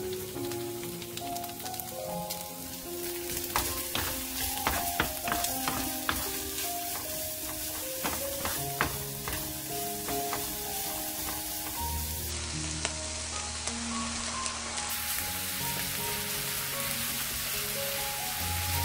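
Pork belly and onions sizzling in a nonstick frying pan as they are stir-fried with a wooden spatula and chopsticks, with sharp clicks of the utensils against the pan between about four and nine seconds in. Background music with a simple melody plays along.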